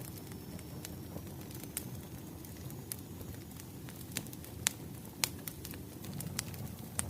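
Wood fire crackling: a steady low rumble with irregular sharp pops of burning firewood, two of them louder about halfway through.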